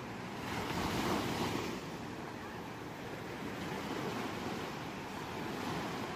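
Ocean surf breaking on a shore: one wave swells in louder about a second in, then a steady wash of water.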